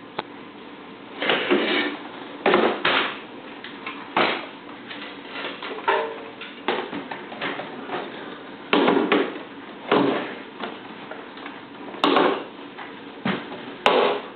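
Manual wheelchair frame being folded and worked into a pickup cab: irregular clunks, knocks and rattles, with several louder bangs a few seconds apart.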